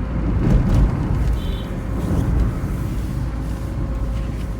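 Steady low rumble of a road vehicle on the move, heard from on board, with a faint steady hum over it.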